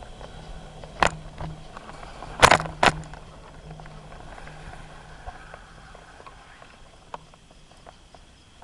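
Bicycle rattling and clunking over bumps as it rides, heard from the handlebars: a sharp knock about a second in and a louder pair of knocks around two and a half to three seconds, then quieter rolling with scattered light ticks.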